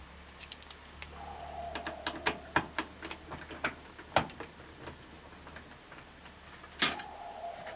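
Irregular metallic clicks and taps of a screwdriver and screw being worked on the washing machine's sheet-metal panel, with a faint squeak twice.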